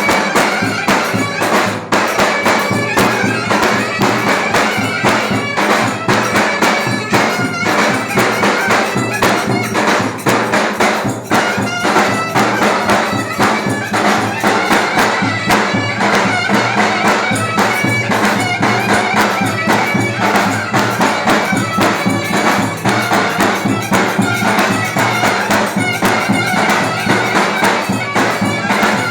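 Turkish folk dance music played live on clarinet and davul: a piercing, ornamented clarinet melody over a steady, driving drum beat.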